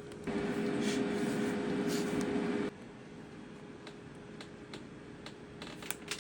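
A small appliance motor running with a steady hum. A louder whir starts just after the beginning, lasts about two and a half seconds and cuts off suddenly. A few faint clicks follow.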